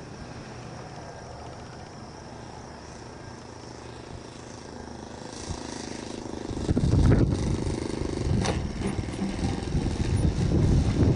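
Faint, steady engine drone of a radio-controlled model airplane. About six and a half seconds in, strong wind starts buffeting the microphone with a loud, uneven low rumble.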